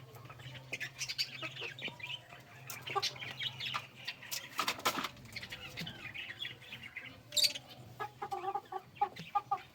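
Black Minorca chickens clucking and calling in short bursts, with a few sharp knocks among them and a quick run of clucks near the end.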